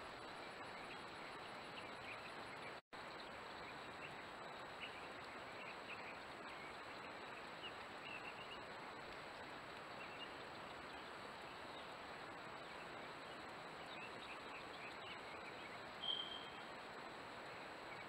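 Steady outdoor background hiss with scattered faint bird chirps, and one louder short chirp about sixteen seconds in. The sound cuts out for a split second near three seconds in.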